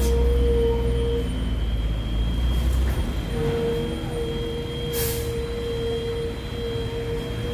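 Heavy truck diesel engine running in slow traffic, a deep rumble that eases after about three seconds, with a steady whine over it. A short hiss of air comes about five seconds in.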